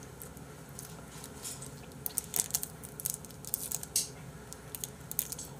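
A person chewing a mouthful of food close to the microphone, with many short wet clicks and smacks of the mouth from about two seconds in.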